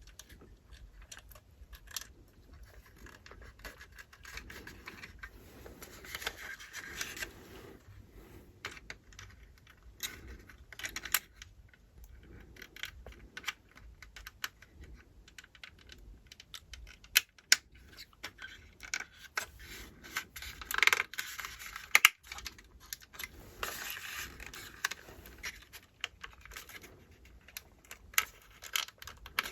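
Small plastic model-kit parts handled and fitted by hand on a workbench: scattered light clicks and taps, with two spells of rustling, about six seconds in and again about twenty-four seconds in.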